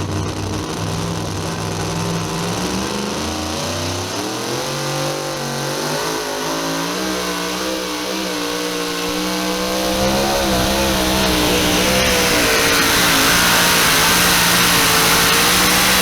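Supercharged pulling truck's engine at full throttle: the revs climb about three seconds in and are then held high and steady, growing louder about ten seconds in.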